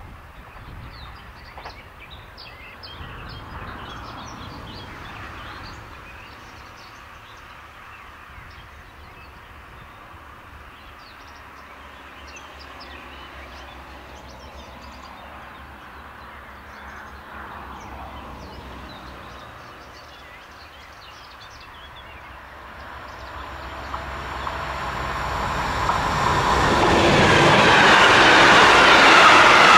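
A train approaching along the track and passing close by. For most of the time only a faint distant rumble is heard; then, about two-thirds of the way through, the sound swells quickly into loud wheel and rail noise as the train comes past.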